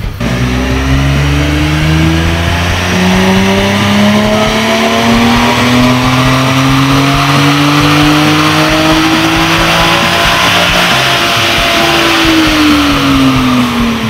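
A 2010 Chevrolet Camaro's 3.6-litre V6 running through Flowmaster American Thunder axle-back mufflers, pulling steadily up through the revs for about eleven seconds, then dropping off near the end.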